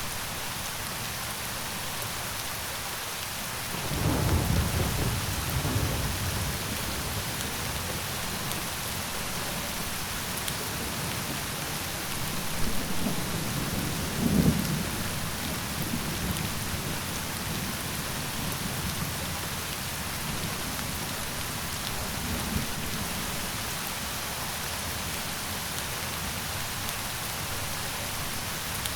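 Steady rain falling, with low rolling thunder about four seconds in and again from about twelve to fifteen seconds, and a fainter rumble a little past twenty seconds.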